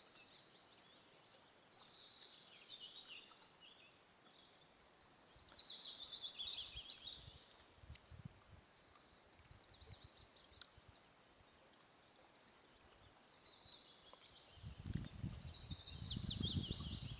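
Small songbirds singing in faint, scattered phrases of high chirps, loudest about five to seven seconds in and again near the end. A low rumbling noise comes in over the last couple of seconds.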